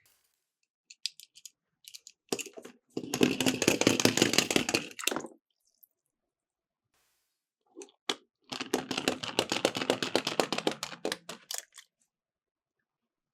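Miniature toy cars rolling and clattering down a plastic slope, a rapid rattle of small clicks. It comes in two bursts, the first about two seconds long and the second about three, with a few scattered clicks before them.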